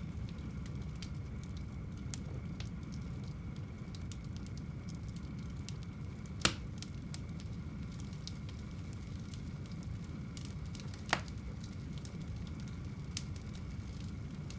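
Fire burning in a home fireplace: a steady low rumble with scattered small crackles, and two sharper pops about six and a half and eleven seconds in.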